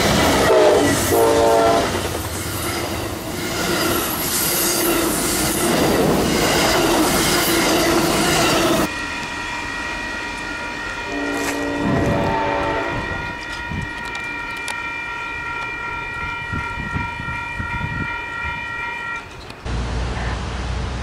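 A passenger train passes close by, its horn sounding at the start, then its wheels clattering over the rails in a dense rush of noise. After a sudden cut, a train horn sounds from farther off in long, steady chords for about ten seconds, with a lower chord joining briefly in the middle. A low rumble comes in near the end.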